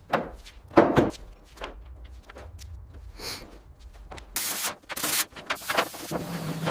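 Workshop work on a car: a run of knocks and clunks, the loudest near the start and about a second in, then several short bursts of hissing noise in the second half.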